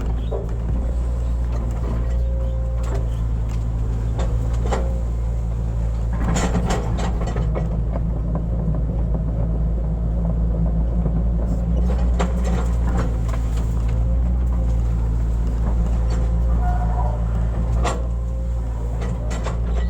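Hitachi excavator's diesel engine running steadily under working load while it digs a ditch, with the hydraulics whining and the bucket clanking and scraping against soil several times.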